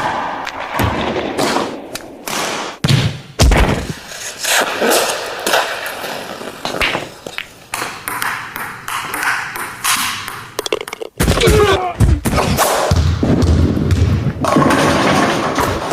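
Quick-cut montage of sports sound effects: a string of hits and impacts from balls and equipment, heavy thuds mixed with ringing pings, with short stretches of live game action between them.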